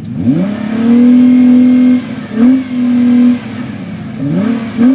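Mitsubishi Lancer Evolution X turbocharged four-cylinder, fitted with a test pipe and Amuse cat-back exhaust, revved up and held at high rpm twice. Sharp throttle blips come between the two holds and near the end.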